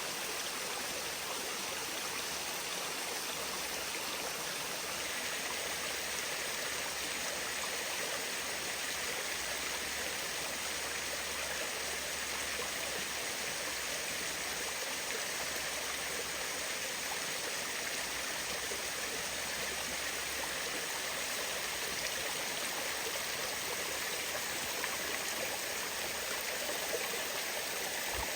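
Water rushing steadily over a small waterfall.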